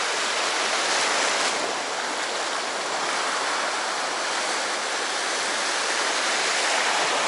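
Sea surf washing on the shore: a steady rushing hiss that swells slightly and eases without a break.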